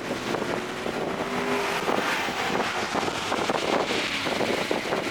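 Toyota GR Corolla's turbocharged three-cylinder engine running at speed on track, mixed with steady wind and road noise.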